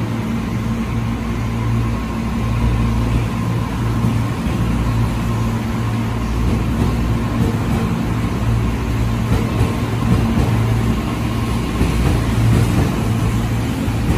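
Electric commuter train pulling out of the station, its motors and wheels running with a steady low hum and a faint even whine, growing slightly louder as it picks up speed.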